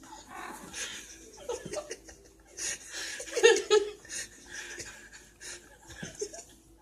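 People laughing and chuckling in breathy bursts, with one louder laugh about halfway through.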